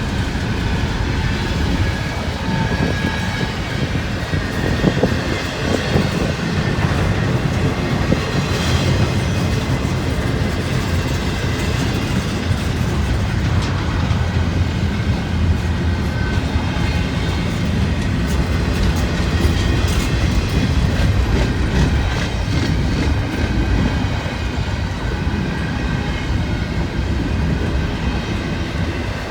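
Freight train cars rolling past, slowing down, their steel wheels clicking over the rail joints with a steady rumble and a faint squeal now and then.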